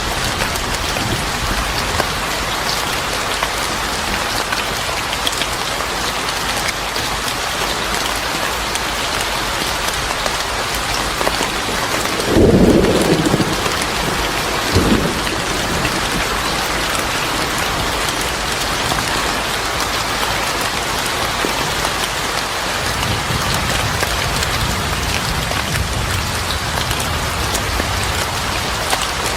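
Steady rain falling on a surface, with a clap of thunder about twelve seconds in and a shorter crack a couple of seconds later. A faint low rumble follows near the end.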